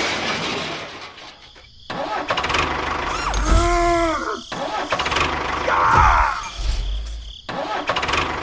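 A small motor running in several short, abruptly cut segments, its pitch rising and falling once about halfway through.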